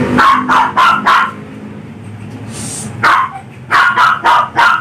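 Dog barking in quick runs: four sharp barks in the first second or so, then after a short pause another string of barks from about three seconds in.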